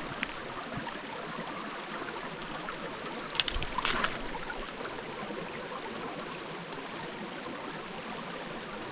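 Small mountain stream running over rocks, a steady rush of water. About three and a half seconds in comes a short, louder burst of splashing.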